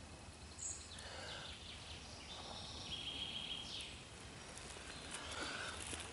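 Faint woodland ambience with scattered short, high bird chirps and calls, including a brief held note about three seconds in.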